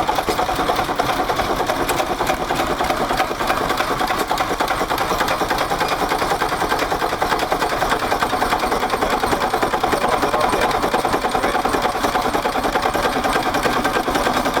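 A stationary engine running steadily at close range, with a fast, even mechanical clatter.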